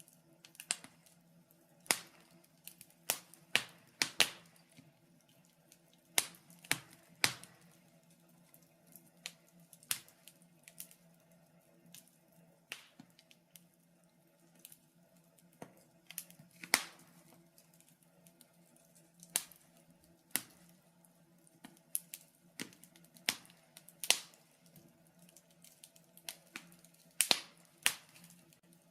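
Wood fire burning in a fireplace, crackling with irregular sharp pops and snaps over a faint steady low hum.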